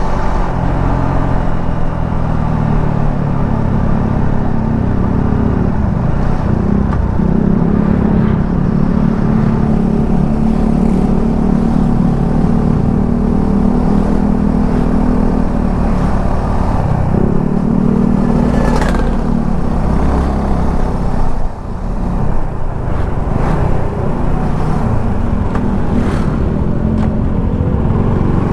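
Suzuki V-Strom 250 SX's single-cylinder engine running on the move, its pitch stepping up and down several times as the rider works the throttle and gears, over a steady rush of road and wind noise. The engine drops off briefly a little past two-thirds of the way through.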